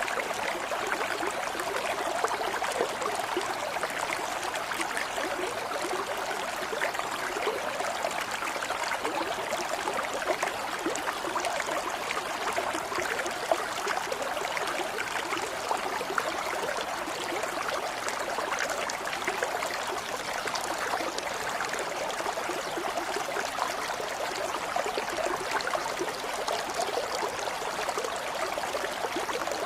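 Running water in a steady babbling stream, with many small trickling splashes and no pause or change.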